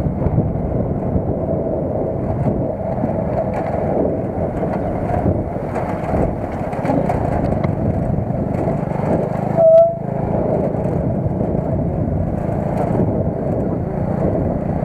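Steady running noise of a car being driven, engine and road, with a short single beep about two-thirds of the way through.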